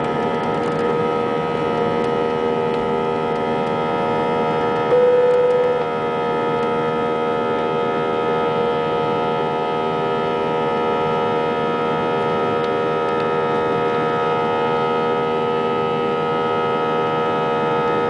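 Airbus A320 jet engines heard from inside the cabin, running steadily: a constant drone layered with many held whining tones. A brief, louder single tone sounds about five seconds in.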